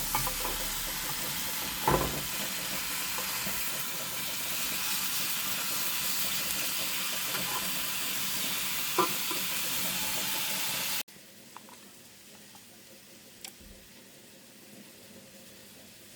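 Chicken breast frying in olive oil in a pan: a steady sizzle with two short knocks of a utensil against the pan. About eleven seconds in it cuts off abruptly to a much fainter sizzle with a single light tick.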